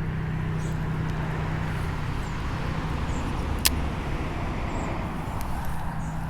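An engine drone runs steadily in the background, low-pitched and even, with a single sharp click a little over halfway through.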